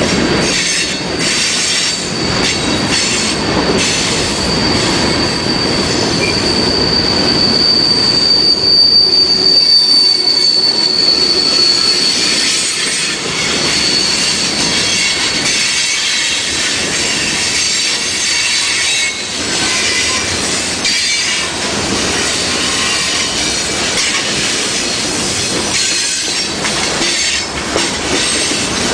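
Railroad cars rolling past with wheel and rail noise and irregular clacks. A single high, steady wheel squeal rises from about four seconds in and fades around thirteen seconds.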